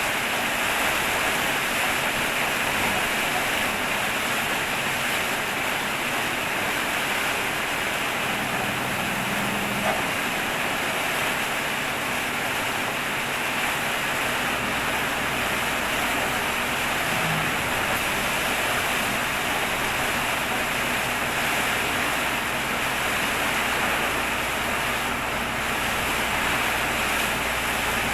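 Heavy rain pouring steadily in a storm, a dense, even rush of noise.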